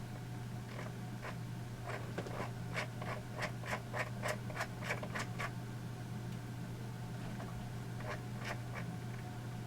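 A quick run of light clicks, about three a second, from beat-making controls being tapped, over a steady low electrical hum; a few more clicks come near the end.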